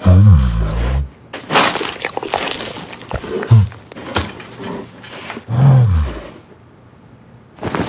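A bear growling in three low, bending calls, near the start, about three and a half seconds in and near six seconds, with a loud crashing clatter between the first two.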